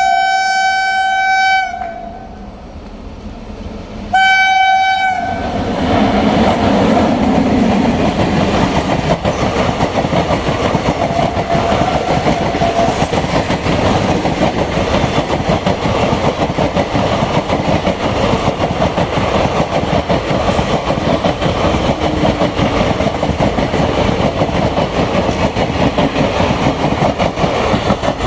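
Train horn blowing a long blast, then a short one a few seconds later, followed by a train passing close by with a steady loud rumble and rapid clickety-clack of wheels over rail joints.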